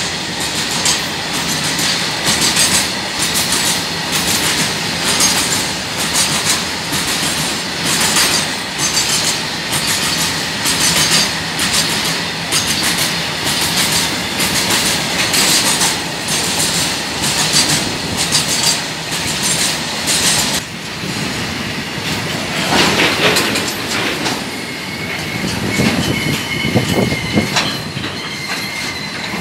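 Freight train of BTPN tank wagons rolling past, its wheels clattering over rail joints in a steady rhythm. In the last few seconds a thin, high wheel squeal rises over the clatter.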